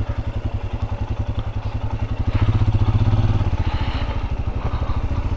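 Royal Enfield Scram 411's single-cylinder engine running with a steady, rapid low thump of firing pulses. It gets louder for about a second a couple of seconds in, then settles back.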